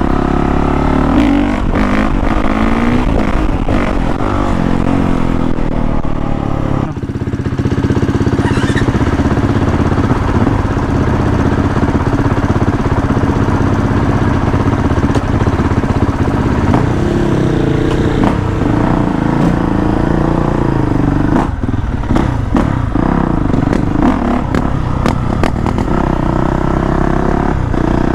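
2019 Honda CRF450R dirt bike's single-cylinder four-stroke engine being ridden, revving up and down through the gears. About seven seconds in the pitch drops, then it holds steady for about ten seconds before it revs up and varies again.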